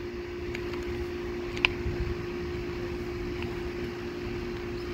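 Steady machine hum, like an air-conditioner unit running, with one sharp click about one and a half seconds in and a few faint ticks, as wire spade connectors are handled and pushed onto the terminals of an air-conditioner run capacitor.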